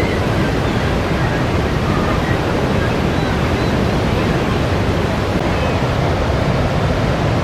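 Steady roar of Niagara Falls, an even, unbroken rushing of falling water heavy in the low end.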